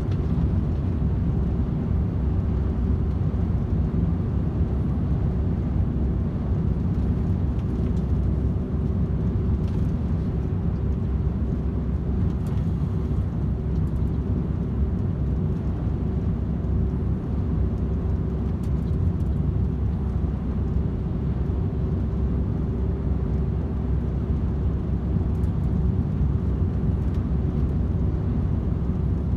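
DAF XF 510 truck's straight-six diesel running steadily at motorway cruising speed, with a constant low rumble of engine and tyres and a faint steady hum.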